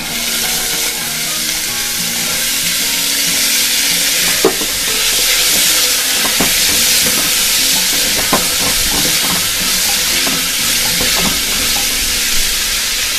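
Soaked, drained chickpeas dropped into hot oil and browned onions in an aluminium pressure cooker, setting off loud, steady sizzling that starts suddenly as they go in. A flat spatula stirs the chickpeas, knocking sharply against the pot a few times.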